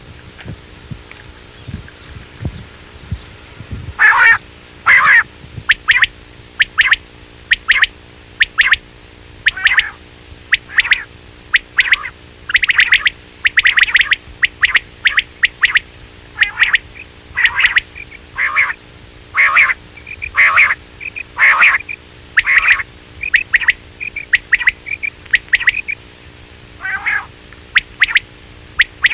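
Quail calls used as a hunting lure: loud, short, sharp notes repeated about twice a second from about four seconds in, sometimes in quick pairs. Before the calls there is only a faint steady high whine.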